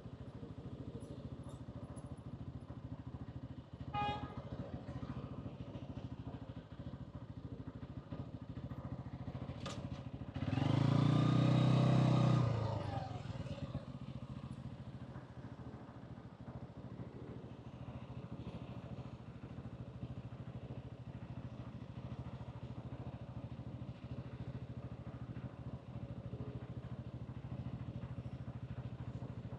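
125cc motorcycle engine running steadily while riding through city traffic. About eleven seconds in it grows much louder for about two seconds, with a rising and falling pitch. A brief high beep sounds about four seconds in.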